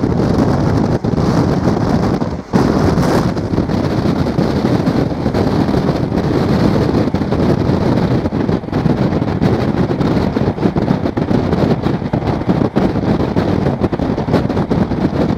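Passenger train running at speed, heard from on board: a loud, steady rush of running noise with wind buffeting the microphone.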